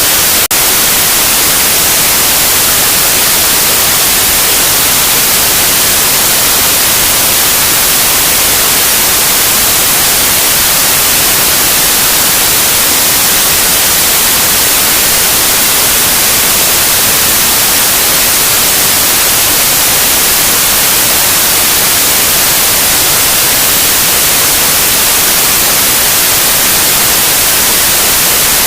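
Loud, steady white noise: an even, unbroken hiss, brightest in the high end, with a split-second dip about half a second in.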